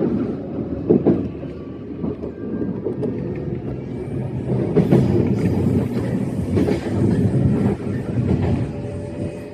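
E131-series electric train running along the line: a steady low rumble of wheels on rail with irregular clicks and knocks. A faint steady high whine joins about four seconds in.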